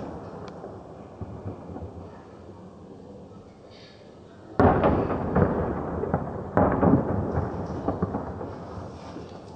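Fireworks: the rumble of an earlier burst fades out, then two loud aerial shell bursts go off about two seconds apart, each a sudden bang trailing into a long rolling rumble.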